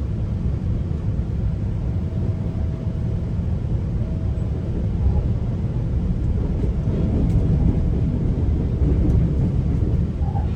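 GO Transit commuter train running on the rails, heard from inside a coach as a steady low rumble, with a faint thin hum that comes and goes.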